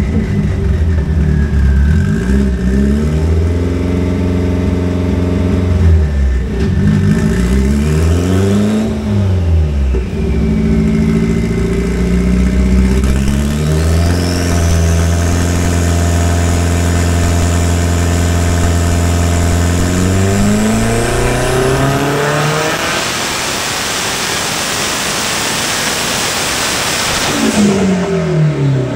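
Heavily modified Audi 1.8T 20-valve turbocharged four-cylinder running on a hub dyno. It is revved briefly twice, then held at steady revs while a high whine climbs steadily in pitch. From about twenty-two seconds in it makes a harsh full-throttle pull, which cuts off about five seconds later as the revs fall away.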